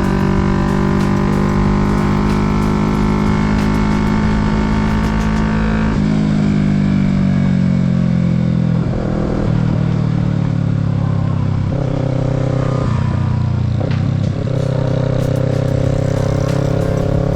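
Kawasaki Z650's parallel-twin engine running under way. Its pitch creeps up for several seconds, drops sharply about six seconds in, and shifts again with a brief dip in level about fourteen seconds in before running steady.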